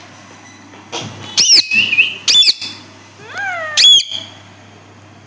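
Pet parrot giving a series of loud, shrill squawking calls over about three seconds, including a falling call just before the loudest one near the end.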